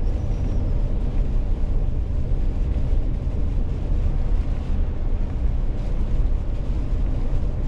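Steady low rumble of a car on the move, heard from inside the cabin: engine and tyre noise on a snowy road.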